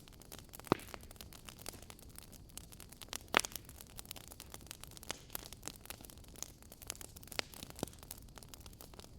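Fireplace crackling: irregular small snaps over a soft hiss, with two louder pops, one under a second in and another a little past three seconds.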